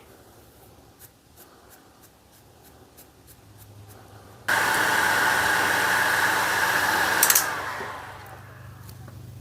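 Faint light strokes of a brush or rag, then a heat gun switches on with a sudden loud steady blowing whine. About three seconds later it clicks and winds down to a quieter running hum.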